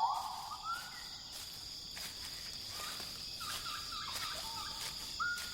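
Tropical rainforest ambience: a steady high insect drone with birds calling over it, starting with a rising, swooping call, then a quick run of short chirps around the middle and a brief level whistle near the end.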